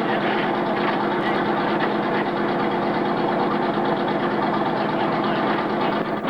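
Truck engine running steadily at idle, with no revving.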